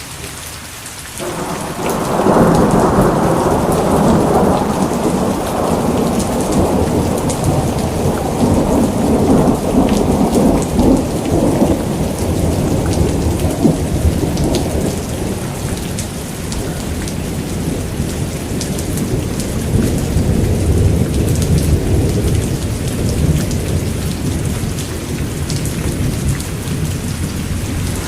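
Steady heavy rain falling, with a long roll of thunder that starts suddenly about a second in, is loudest over the next few seconds and slowly rumbles away under the rain.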